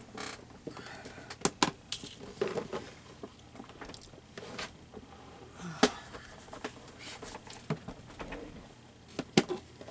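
Rummaging through a box of paper scraps: papers rustling and shuffling, with irregular sharp clicks and taps, a few louder ones about a second and a half in, near six seconds and near the end.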